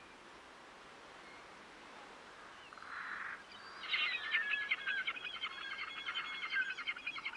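A songbird singing a fast, continuous run of chirps and trills, starting about four seconds in and going on to the end, after a short raspy note and a few seconds of faint outdoor hiss.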